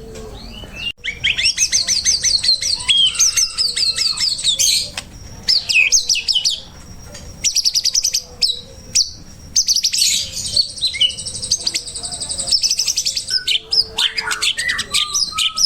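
Songbird singing a fast, varied chattering song: long runs of rapid high trills broken by short whistled and slurred phrases.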